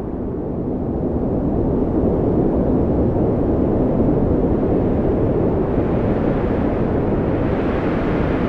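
Strong wind blowing in a steady deep rumble, swelling a little over the first couple of seconds and picking up a higher hiss near the end.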